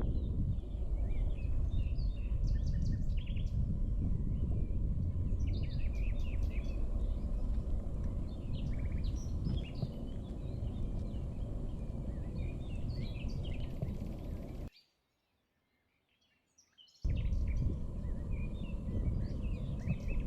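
Small birds chirping and twittering many times over a steady low outdoor rumble. The sound cuts out to near silence for about two seconds near the end, then returns.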